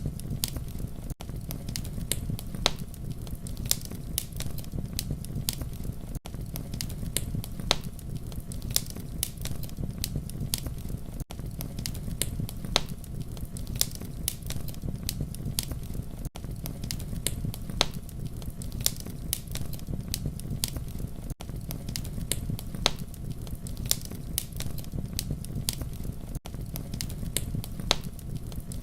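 Campfire crackling: a steady low rumble of burning wood with dense sharp pops and snaps throughout, and a brief dip in level about every five seconds.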